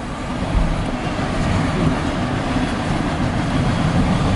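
Norfolk Southern intermodal freight train rolling by, a steady, loud rumble of wheels and cars on the rails.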